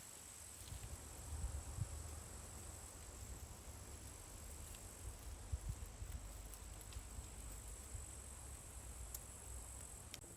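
Crickets chirring steadily in a high, even drone, over a low rumble with a few faint clicks.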